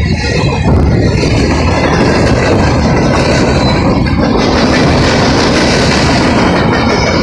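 CSX freight train's tank cars and boxcars rolling past at speed: a loud, steady rumble and rattle of steel wheels on the rails.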